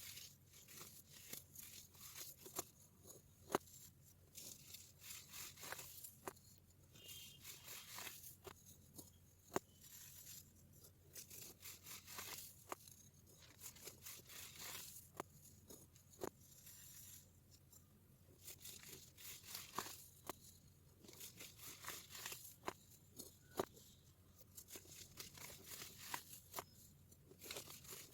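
Baking soda being crushed and crumbled: irregular crisp crunches and crackles, with a few louder sharp snaps.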